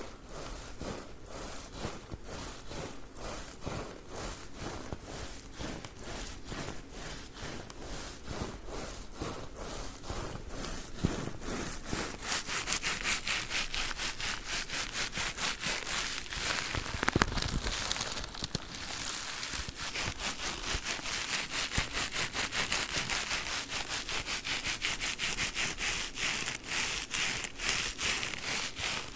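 A packaged sponge being scratched and rubbed in quick, even strokes, about four a second. The strokes get louder and brighter about twelve seconds in.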